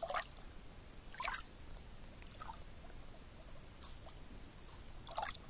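Lake water lapping gently over a steady low hiss, with a few brief, louder splashes: two near the start and one near the end.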